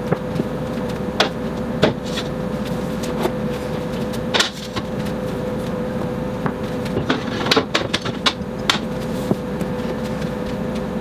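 Food containers and jars being set down and moved about on refrigerator shelves: scattered short knocks and clicks at irregular intervals over a steady hum.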